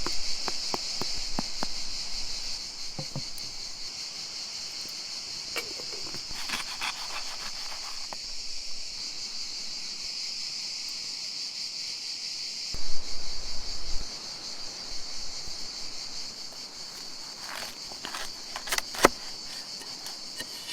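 A steady, high-pitched chorus of insects runs throughout. Scattered clicks and knocks sound over it, the loudest about thirteen seconds in and another shortly before the end.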